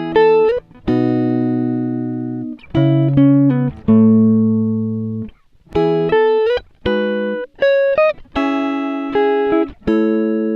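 Background music: plucked guitar-like chords and single notes, each struck and left to ring and fade, some with short upward slides in pitch.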